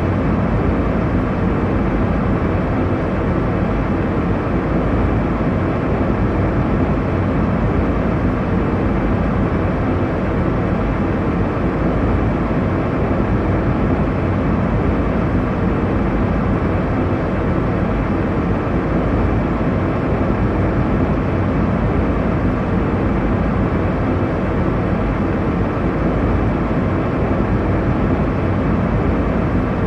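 Airliner cabin noise: a steady, low rumble and rush of engines and airflow heard from inside the cabin in cruise.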